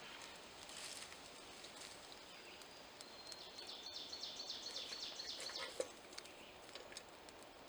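A small songbird singing a rapid run of high chirps, starting about three seconds in and lasting a few seconds, over quiet woodland ambience with a few faint clicks.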